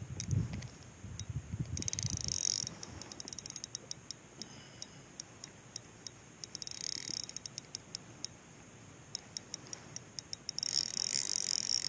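Fishing reel clicking in a run of quick sharp ticks, with a few short higher rasping spells, the longest near the end, and some low handling rumbles early on.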